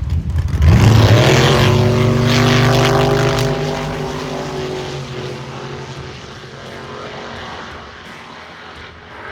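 Chevrolet Camaro drag car launching hard off the line about a second in. Its engine pitch climbs quickly, then holds level for a few seconds as it runs under the throttle stop of the throttle-stop qualifier class. The sound fades as the car goes away down the strip.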